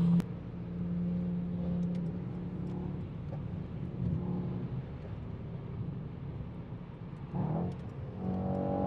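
Car engine and road noise heard from inside the cabin under hard driving. The engine note holds a steady pitch, swells with a brief rise about seven seconds in, and comes back louder near the end.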